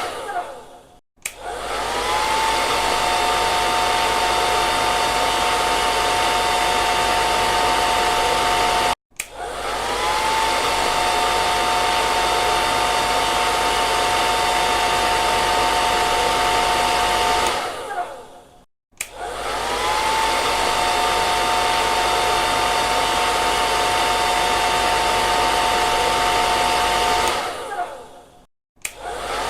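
Hair dryer blowing: a steady rush of air under a steady motor whine. About every nine seconds it cuts out briefly, and each time it comes back the whine rises as the motor spins up.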